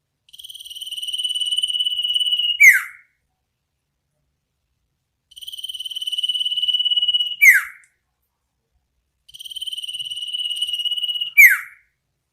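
An iora (sirtu/cipoh) calling three times. Each call is a rapid, buzzing trill that grows louder for about two seconds and ends in one sharp, downward-sweeping whistle: the 'ngetir' trill followed by the 'cipow' note.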